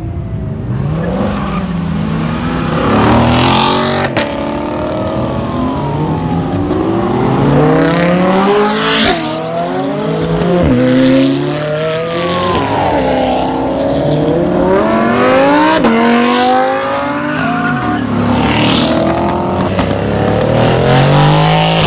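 Car engines revving hard as cars accelerate away one after another. Each engine's pitch climbs and then drops back at a gear change, again and again, and there is a sharp crack about four seconds in.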